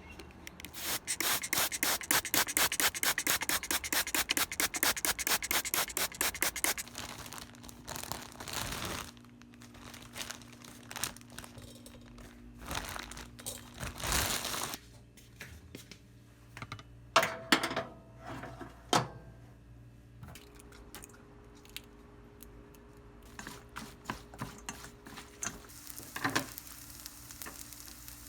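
Kitchen food preparation: a run of fast, even scraping strokes for about six seconds, then scattered knocks, clinks and handling noises.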